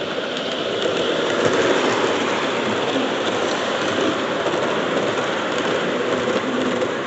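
Model train running along the layout track, its wheels and motor giving a steady rolling rumble with fine clicking, growing louder over the first second as it comes close.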